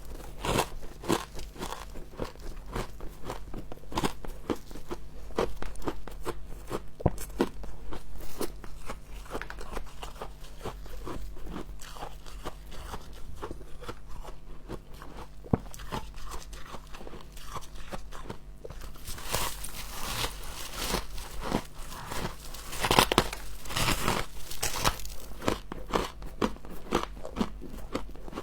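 Close-miked biting and chewing of humidifier frost: a dense run of crisp crunches and crackles, with louder bursts of biting about two-thirds of the way in and again near the end.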